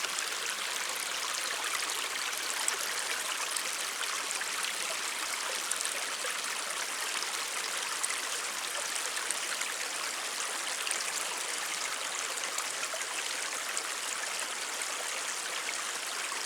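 A stream babbling steadily, an even rush of running water with no breaks.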